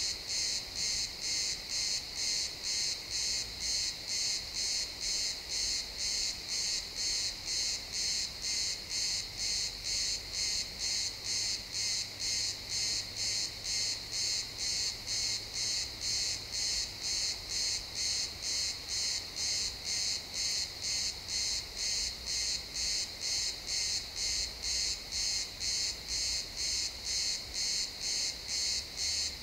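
Crickets chirping in a steady, even rhythm of about two high-pitched chirps a second.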